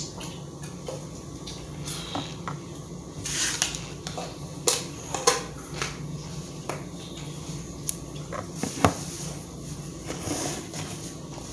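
Cutlery clinking and scraping against a plate during a meal: scattered light clicks and knocks, a few sharper ones, over a low steady hum.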